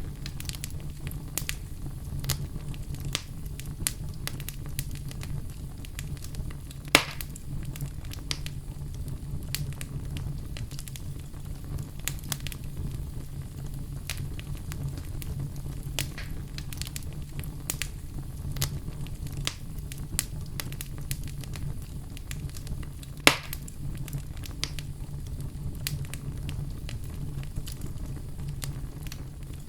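Wood fire crackling in a fireplace: a steady low rumble with frequent small snaps, and two louder pops, one about a quarter of the way in and one past three-quarters.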